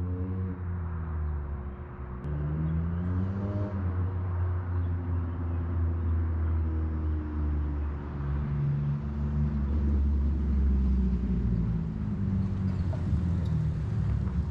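2007 Jeep Wrangler's 3.8 V6 with long-tube headers, no catalytic converters or resonators, and a single aftermarket muffler, running with a deep exhaust drone while driving. Its pitch climbs in the first few seconds as it pulls up through the revs, then it settles into steadier running.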